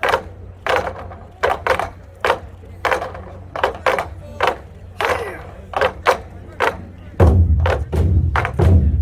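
Korean drum ensemble (buk) performing: sharp, evenly spaced strikes in a steady rhythm. About seven seconds in, deep, loud drum beats join in.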